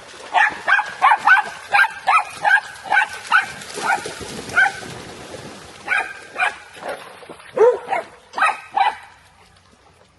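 A dog barking in a quick run of high-pitched barks, about three a second for four seconds, then a second run after a short pause.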